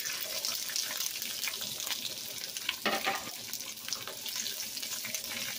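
Cut snow peas hitting hot oil in a stainless steel wok as they are slid in off a wooden cutting board, frying with a steady crackling sizzle. The oil is now hot enough to fry. There is a single knock about three seconds in.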